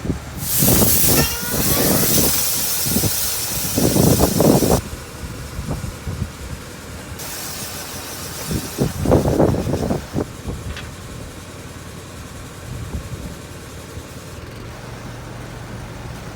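Two spells of loud rushing air, the first about four seconds long and the second about three, each starting and stopping abruptly, with low knocks and rustling mixed in.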